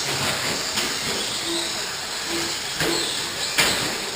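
Electric RC short-course trucks racing: a steady hiss with a thin high whine, broken by a few sharp knocks.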